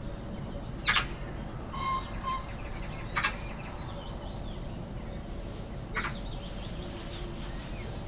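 Birds calling: three short, harsh calls, about two and a half seconds apart, with a fainter two-note call and high chirps between them, over a steady low background rumble.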